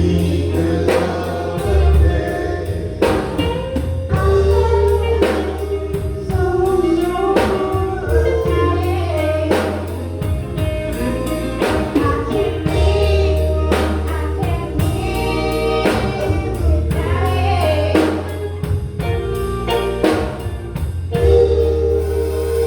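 Live gospel music: voices singing together over a drum kit, bass and keyboard with a steady beat.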